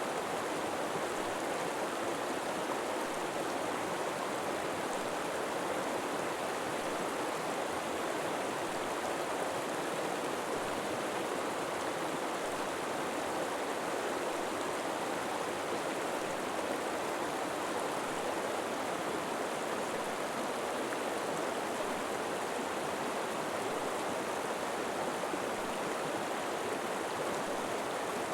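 River water flowing steadily over rocks, an even rushing without any distinct splashes or changes.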